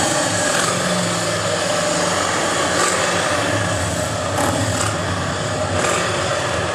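Steady engine noise at a motor-racing meet: a low drone from nearby motorcycles over a continuous haze of noise, with no let-up.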